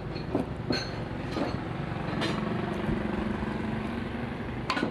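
A steady engine-like hum runs throughout, with a few sharp clicks and knocks, the last of them near the end.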